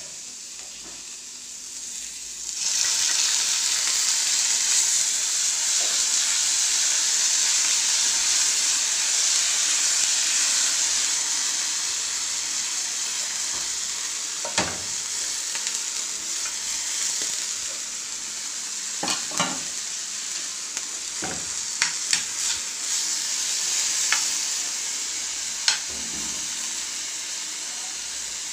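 Hot oil sizzling in a frying pan with onion and green chili. About two and a half seconds in, the frying gets much louder as canned tuna is tipped in, then carries on steadily while a metal spoon stirs, with a few sharp clicks and scrapes against the pan.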